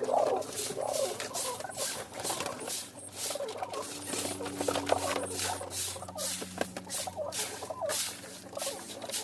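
Kept birds chirping and squeaking amid a quick run of short scratchy, pattering strokes, a few a second, over a faint steady hum.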